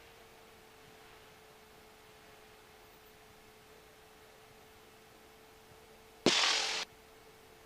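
Faint steady electrical hum, broken about six seconds in by a sudden half-second burst of loud static hiss that cuts off sharply.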